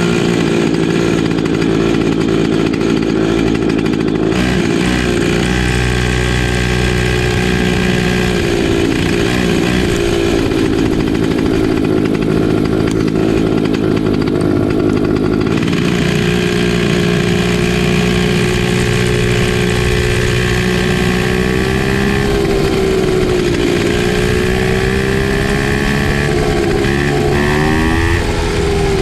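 Comer C50 two-stroke go-kart engine running hard at a high, steady pitch. In the second half its pitch dips and climbs back several times as the revs fall and pick up again.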